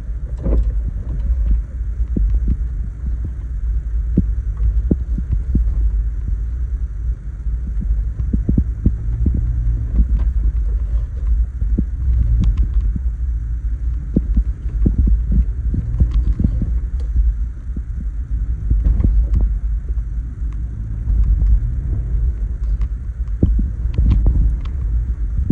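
Toyota FJ Cruiser's 4.0-litre V6 and drivetrain giving a steady low rumble as it crawls along a snowy trail, with scattered knocks and thumps throughout.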